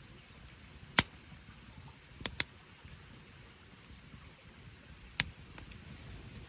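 Firewood burning in a campfire, crackling with a few sharp pops, the loudest about a second in, over a low steady rumble.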